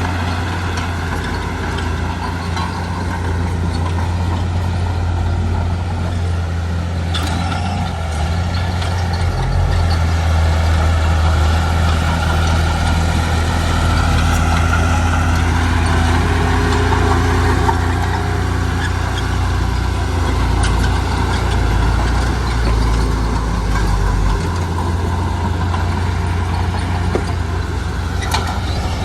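Heavy diesel engine of construction machinery running steadily, its note shifting now and then, with a few brief knocks.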